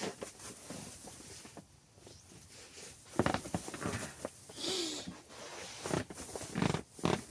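Rustling and shuffling of bedding and tent fabric as a person stirs and gets up, with scattered clicks, a few low grunts and a breath.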